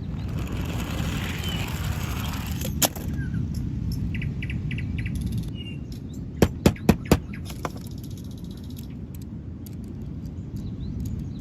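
Steady low rumbling background with faint bird chirps. There is a sharp click near the start, then a quick run of four sharp clicks about halfway through.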